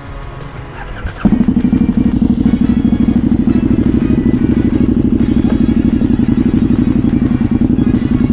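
Motorcycle engine running loud and steady at an even pitch, with a fast, close exhaust pulse; it cuts in abruptly about a second in.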